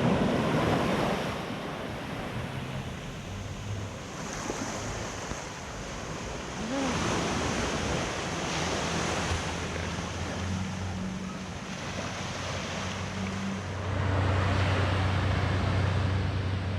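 Sea waves washing onto the shore, with wind buffeting the microphone. A low steady hum comes in and grows louder near the end.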